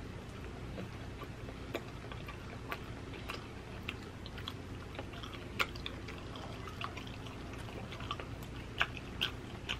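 Close-up chewing and wet mouth smacks of a person eating rotisserie chicken dipped in cheese sauce: soft, irregular clicks about once a second over a low steady hum.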